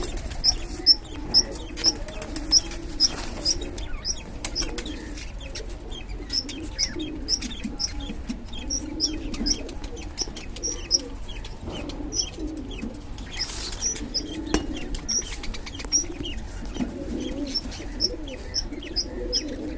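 Budgies chirping: short, high chirps repeating about twice a second, over a low, continuous cooing warble.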